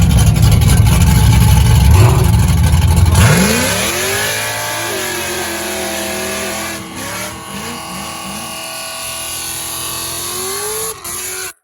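Camaro engines at full throttle, accelerating hard and pulling away, their pitch climbing through several gear changes as the sound fades. The first three seconds are a loud, deep rumble with wind buffeting the microphone. The sound cuts off abruptly near the end.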